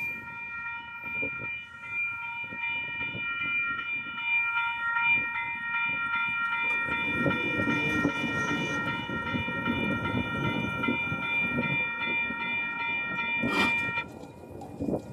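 Locomotive air horn sounding one long, steady blast that cuts off about a second before the end, over the rumble and clatter of the moving train, which grows louder about halfway through.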